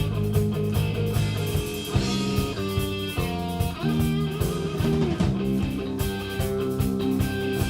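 Rock band playing live: an instrumental passage led by electric guitar, with bass and a steady drum beat underneath.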